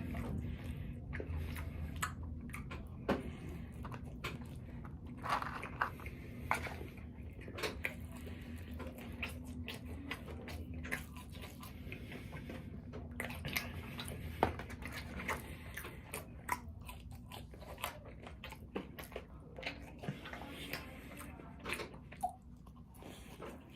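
Close-miked eating: irregular wet chewing, biting and smacking sounds with occasional crunches, over a steady low hum.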